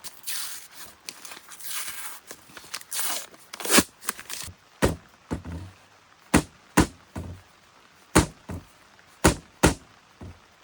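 Paper rustling as the label is peeled off a refrigerated pizza-dough tube, then about a dozen sharp knocks as the tube is pressed and struck to make the seam pop; it does not pop open.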